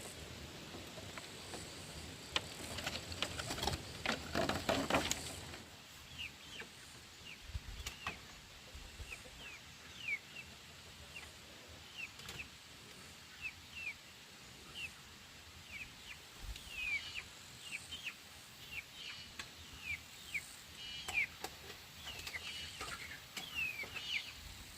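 Birds cheeping: short, high chirps that slide downward, about one a second at first and more frequent near the end. A few seconds of rustling come early on.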